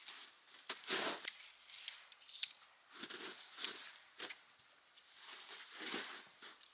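Rustling and handling noises: a few scraping swishes with sharp clicks between them.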